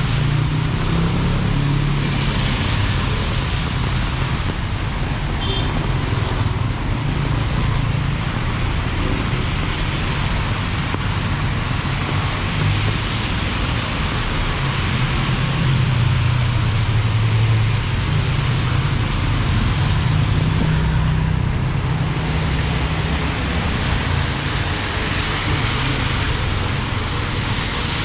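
Steady hiss of heavy rain, with road traffic running underneath as a low rumble.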